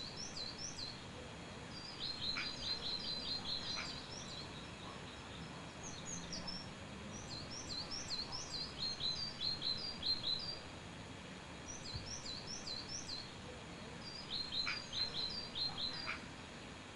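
Birds singing: phrases of quick, high chirps repeated several times, a few seconds apart, over a steady outdoor background hiss.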